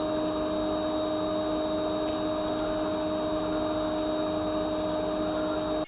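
Hot air rework station blowing steadily with a hum, desoldering the soldered memory chips from a MacBook Air logic board; it cuts off suddenly at the end.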